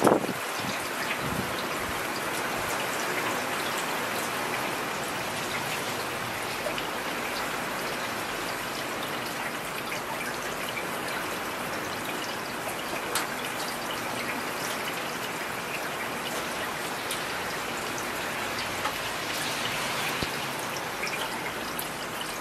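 Heavy rain falling steadily: a dense, even hiss with scattered sharper drops striking nearby surfaces.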